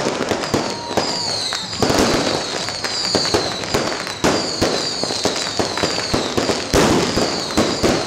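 Fireworks display: a dense run of bangs and crackles, with short high falling whistles about once a second.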